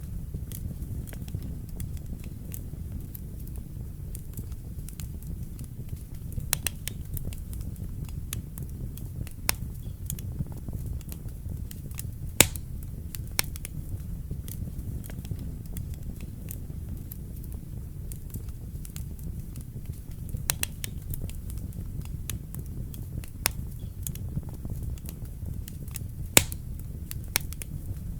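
Wood fire burning in a fireplace: a steady low rumble of the flames with irregular sharp crackles and pops, a few much louder snaps standing out, one about halfway through and one near the end.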